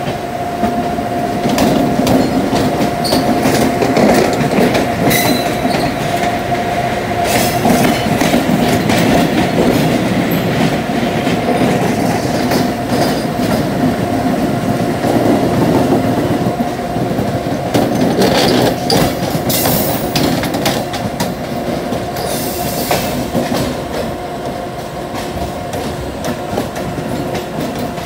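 Indian Railways express trains running side by side, one hauled by a WAP-7 electric locomotive: continuous wheel clatter over rail joints and points, with a steady thin whine underneath.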